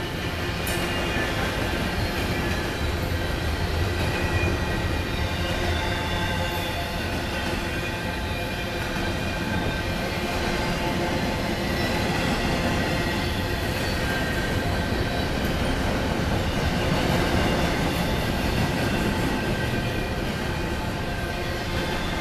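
Double-stack intermodal freight train rolling past at steady speed: a continuous rumble of steel wheels on rail from the passing well cars, with faint high squealing tones from the wheels.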